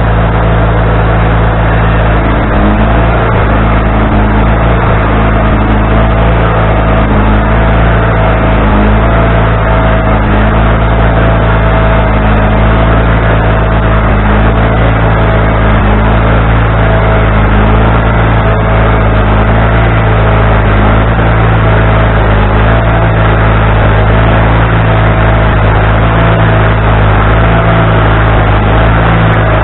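Wood-Mizer LT40HD band sawmill running loud and steady: a constant engine note with a higher, slightly wavering whine over it and a faint pulse about every two seconds.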